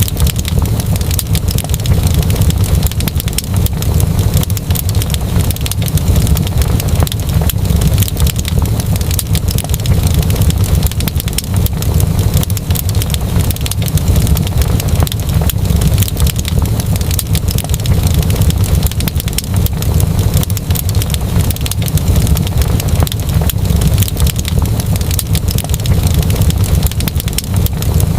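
Fireplace fire crackling: dense, irregular crackles and pops over a steady low rumble.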